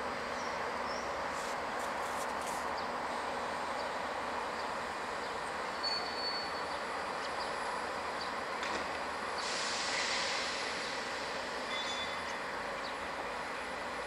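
Train moving slowly through a station: a steady running noise, with a short hiss about two thirds of the way through and a few brief high squeals.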